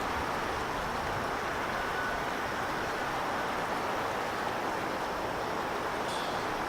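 Steady rushing of wind and waves at the shore, with wind buffeting the microphone. A faint short high sound comes near the end.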